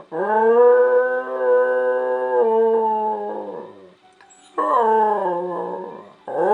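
A dog howling in long drawn-out howls. The first is held at a steady pitch for about three and a half seconds, then dips and fades. A second, shorter howl falls in pitch, and a third begins near the end, rising.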